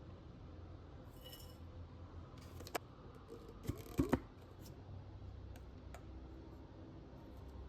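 Tableware clinking during a cake-and-tea sitting: a fork or cup lightly knocking against china, one sharp clink a little under three seconds in and a quick cluster of three about a second later, over a low steady room hum.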